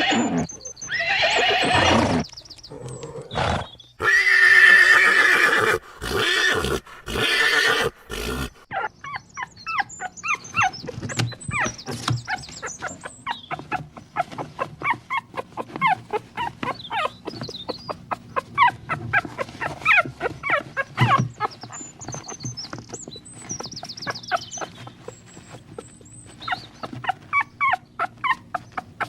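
A horse whinnying and neighing several times in loud, wavering calls. After about eight seconds come many quick, uneven knocks of hooves, with faint bird chirps.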